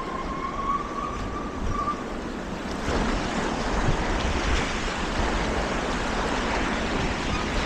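Rushing water with wind buffeting the microphone, a steady roar that grows louder about three seconds in. A faint high tone sounds briefly at the start.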